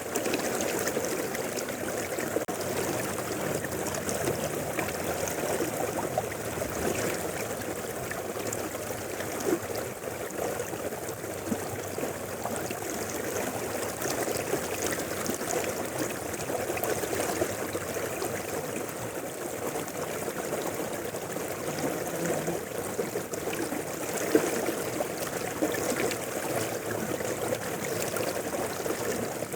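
Mountain river flowing steadily: an even, continuous rush of running water.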